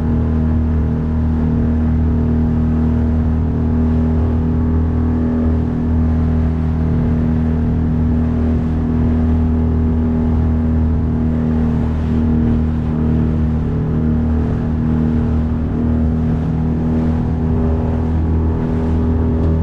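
A 9.8-horsepower outboard motor running at a steady speed as it drives a small boat along, its note holding one even pitch.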